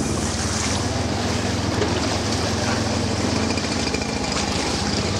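Engine of a slow-moving vehicle running steadily, a low even hum under a constant hiss.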